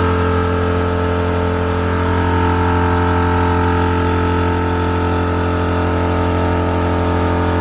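Air compressor running steadily with an even, unchanging motor hum, pumping up tires that have been aired down to about 12 psi.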